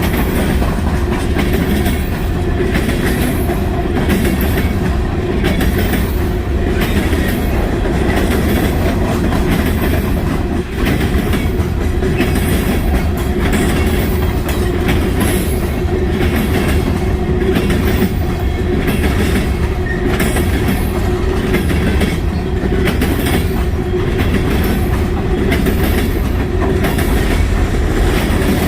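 Freight cars of a long CSX coal train rolling past close by: a steady loud rumble with a continuous irregular clatter of wheels over the rail joints.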